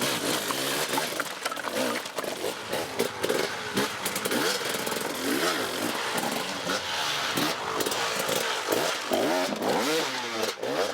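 Off-road motorcycle engine revving up and down over and over, its pitch rising and falling about once a second as the throttle is worked.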